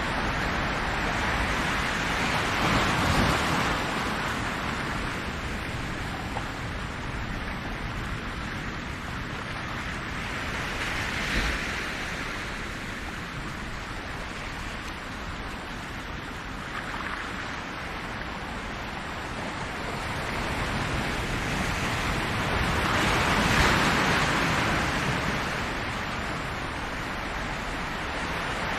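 Ocean waves on the shore, a steady wash of surf that swells and falls back slowly, with the biggest waves breaking about 3, 11 and 23 seconds in.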